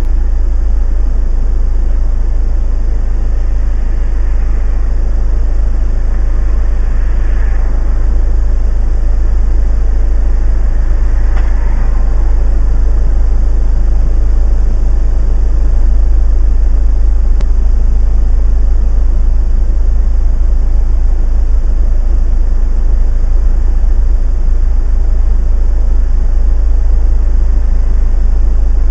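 Steady low rumble of a car on the move, engine and road noise picked up by a dash cam microphone inside the vehicle.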